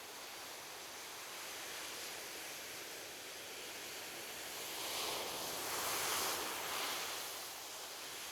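Ocean surf washing steadily onto a beach, with one wave swelling and breaking louder about five to seven seconds in before settling back.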